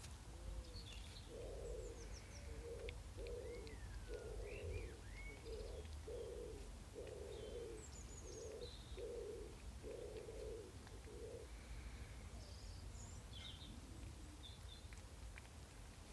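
A dove or pigeon cooing: a run of about a dozen low, soft coos, roughly one a second, which stops about three-quarters of the way through. Short, higher chirps from other small birds are scattered across it.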